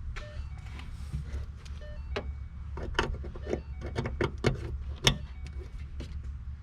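A run of irregular light clicks and knocks, thickest in the second half, over a steady low hum: parts and tools being handled while working on the car.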